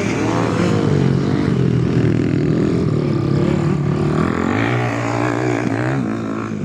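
Several motocross bikes' engines revving together, their pitch rising and falling and overlapping.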